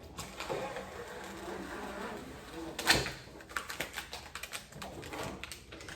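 Packing pieces being pried and pulled off a newly unboxed cooking appliance: a sharp snap or knock about three seconds in, then a run of quick clicks and rattles as the parts are handled.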